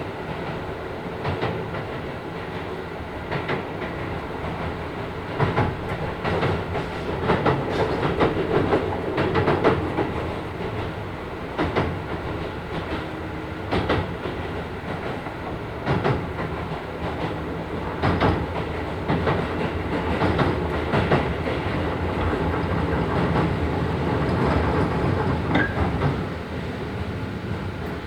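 Onboard running sound of a Keisei 3000 series electric train with Toyo IGBT-VVVF traction equipment: a steady rumble with wheels clicking over rail joints.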